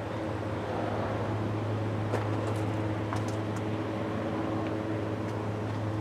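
John Deere 5055E tractor's three-cylinder turbo diesel running at a steady idle, a constant low hum with a few faint clicks.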